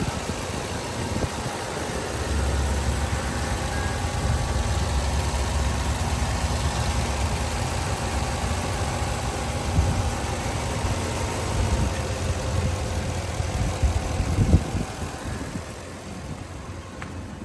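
2006 Toyota Tundra's 4.7-liter V8 idling steadily, getting a little quieter near the end.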